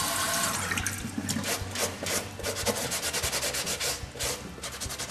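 Wet cloth rubbed over a synthetic football boot's upper in quick repeated strokes, with running tap water dying away in the first second.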